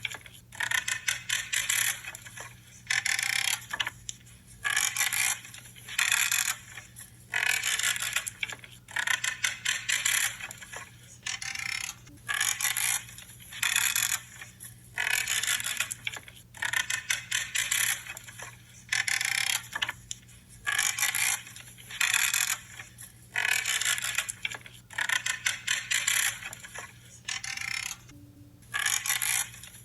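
Pruning shears cutting through branches cut after cut, each cut a short creaking crunch under a second long, coming roughly once a second with brief pauses between. A faint steady low hum runs underneath.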